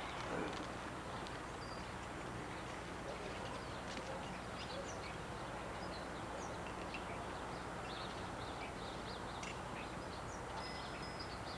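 Steady outdoor background hiss with many short, high bird chirps scattered throughout.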